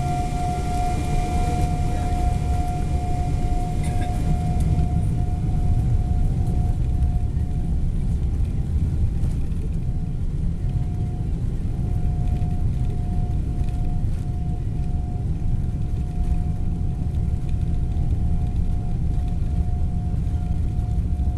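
Boeing 777-200ER cabin noise: a steady low rumble with a thin, steady whine above it that turns intermittent partway through.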